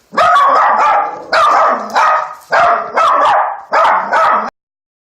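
A dog barking loudly and repeatedly, about six barks in quick succession, then cutting off suddenly near the end.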